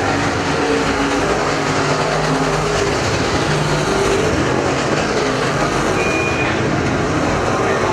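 IMCA Modified dirt-track race cars' V8 engines running at speed around the oval: a steady, loud din of several cars together, with engine notes rising and falling as they come by.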